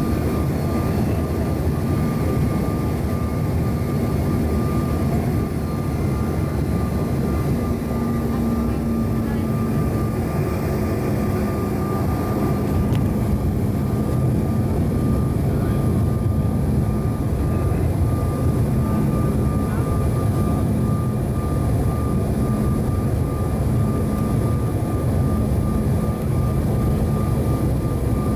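Steady in-flight cabin noise of a Bombardier CRJ-900 regional jet: the rush of air and the hum of its rear-mounted GE CF34 turbofans, with a thin steady whine above it.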